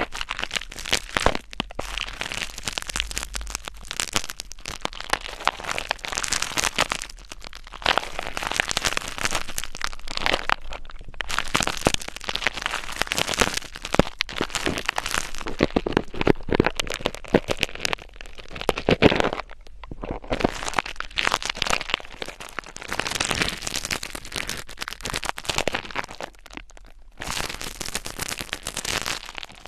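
Close-miked ASMR scratching: dense crackling and scraping right at the microphone, in runs of a few seconds broken by short pauses.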